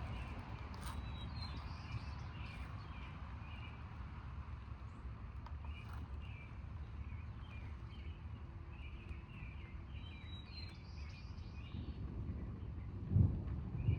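Birds chirping repeatedly over a steady low outdoor rumble. A louder, irregular low rumble swells about a second before the end.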